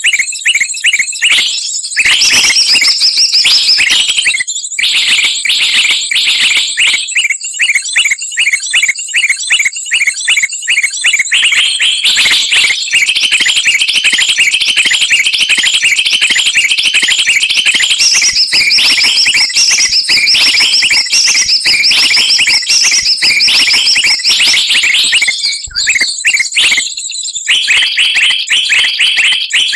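A loud, busy mix of small songbirds chirping, whistling and chattering rapidly without a pause: a bird-trapping lure recording of many species calling at once.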